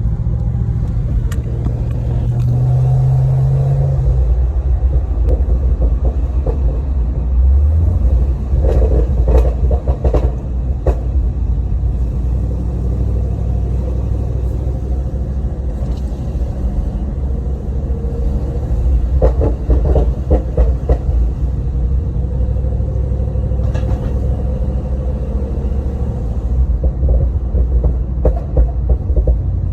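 Supercharged 6.2-litre LSA V8 of a Holden VF GTSR running through a 3-inch Xforce exhaust: a deep, continuous rumble. Three times it breaks into a short run of quick sharp pops.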